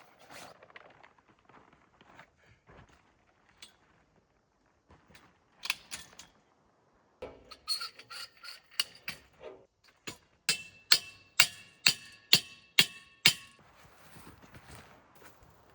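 Scattered small clicks and rustles of handled gear, then seven sharp metallic strikes about twice a second, each with a brief ringing tone.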